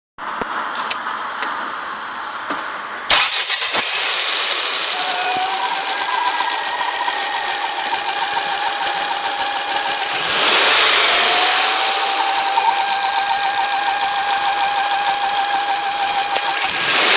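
Ford S-Max 2.5T's Volvo five-cylinder turbo engine running warm, with a strange thin high tone that comes in and out over the engine sound; the owner has been told it may come from the filter coupling. The engine sound jumps up suddenly about three seconds in and swells briefly around ten seconds in.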